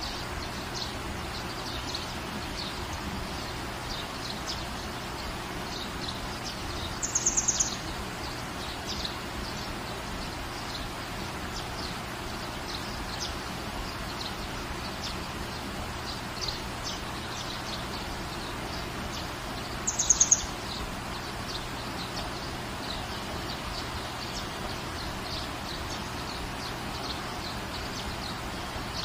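Steady rain falling on a garden, with small birds chirping faintly throughout. Twice, about 7 and 20 seconds in, a bird gives a short, louder burst of rapid high notes.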